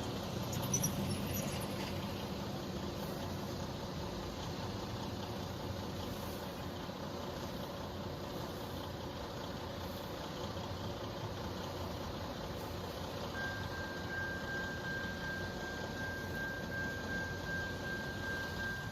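Steady rolling noise of a passing train, with a thin, steady high-pitched whine joining about thirteen seconds in.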